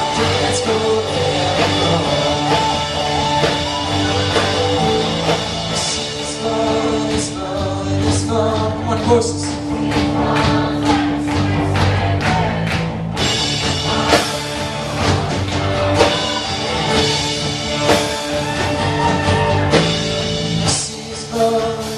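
A live band playing a rock-style worship song, with drums and singing.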